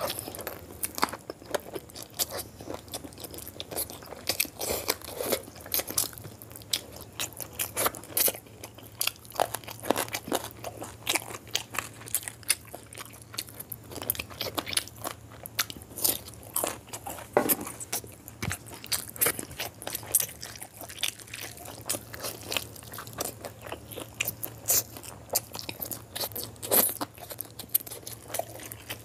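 Close-miked chewing of a hand-fed mouthful of chicken curry and rice: a dense, irregular run of wet mouth clicks, smacks and crunching.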